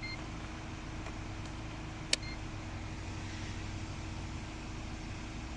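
Steady low mechanical hum, with one sharp click about two seconds in.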